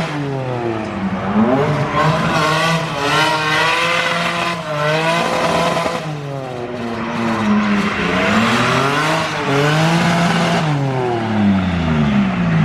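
Drift car engine revving hard, the revs climbing and dropping again and again, about every one to two seconds, with tyre squeal under it.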